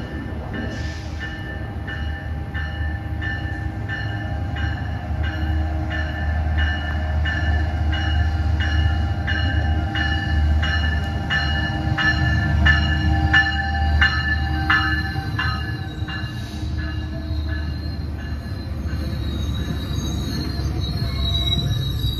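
Diesel-hauled passenger train moving through the station, with a steady low engine rumble and a locomotive bell ringing about twice a second. The bell stops about three-quarters of the way through, and high-pitched wheel squeal rises near the end.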